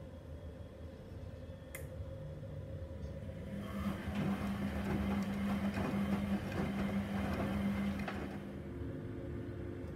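Gorenje SensoCare washing machine on its quick wash: a click about two seconds in, then the motor hums and turns the drum, churning the wet laundry for about five seconds before it stops again.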